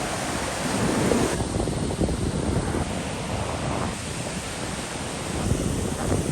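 Ocean surf washing on the beach, with wind buffeting the microphone; the high hiss thins out abruptly a little over a second in.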